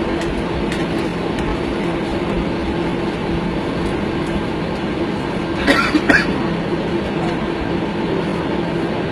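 Jet airliner heard from inside the cabin: engines running with a steady rumble and a low, even hum. A couple of short sharp knocks come about six seconds in.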